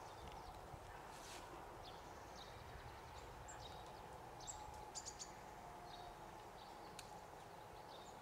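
Faint outdoor ambience: small birds chirping briefly now and then over a steady low hum.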